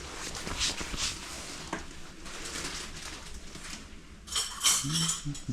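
Kitchen handling noises, with dishes and cutlery clinking near the end.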